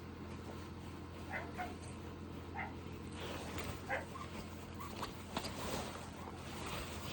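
Shikoku dog giving a series of short, high-pitched whimpers, about eight brief calls from about a second in until near the end, the loudest about four seconds in, over a steady low hum.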